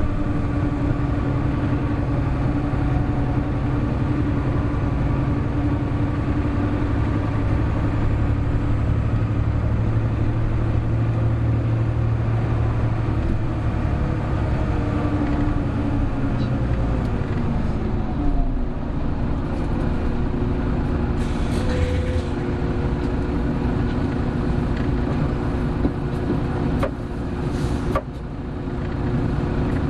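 Hino Blue Ribbon City Hybrid bus heard from on board while driving, its engine running with a steady drone. About 18 seconds in the pitch falls as the bus slows, and a few clicks and short hisses of air follow near the end.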